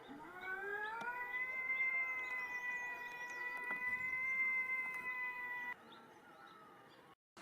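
Kitten giving one long drawn-out meow that rises in pitch at first, then holds steady for about five seconds before cutting off abruptly.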